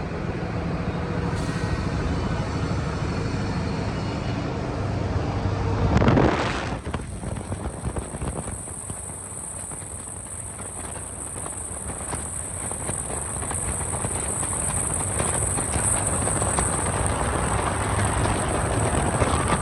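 Scania R620 V8 truck engine running through a loud exhaust pipe. It swells to its loudest about six seconds in, drops off, then builds again toward the end.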